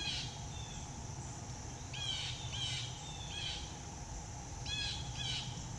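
A bird giving about six short, harsh calls, mostly in pairs spaced roughly half a second apart, over a steady high-pitched insect drone.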